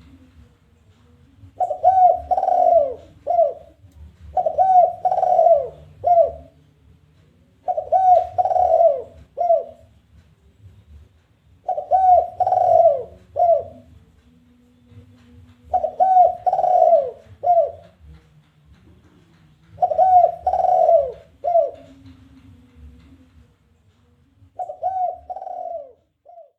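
Spotted dove (tekukur) singing its challenging call: seven phrases of several quick coos, one every four seconds or so, with short silences between them.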